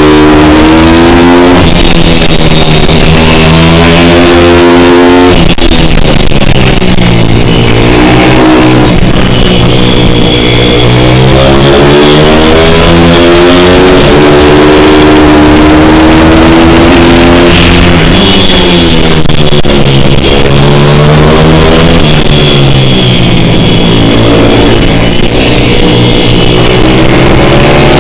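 Pit bike's small single-cylinder four-stroke engine being ridden hard: it revs up, drops back and climbs again every few seconds, as the rider accelerates out of corners and lifts or brakes into the next. Very loud throughout.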